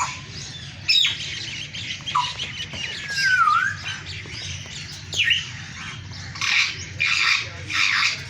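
Green African parrots calling: short whistled notes, a long whistle that dips and then rises, and a run of harsh squawks near the end.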